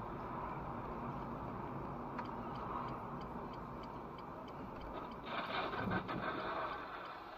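Steady road and engine noise inside a car, with a regular, faint ticking throughout. A louder noisy swell comes about five seconds in and lasts under two seconds.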